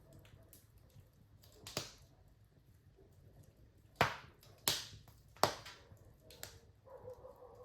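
Wood fire in a fireplace crackling, with a handful of sharp pops over a low steady rush; the loudest three come in quick succession a little past the middle.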